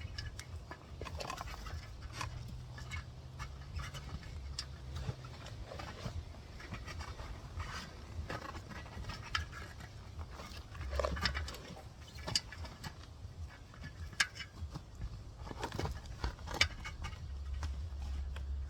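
Hands working a dirt bike tyre and inner tube onto its rim: scattered rubbing and scraping with light knocks, and a few sharper clicks in the second half, over a low steady hum.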